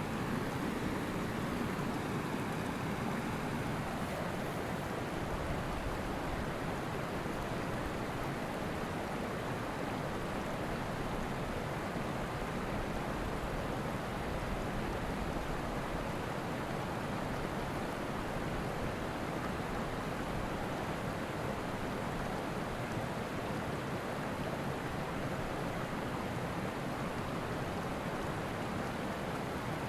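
Steady, even rushing noise with no speech or music, of the kind made by wind or running water.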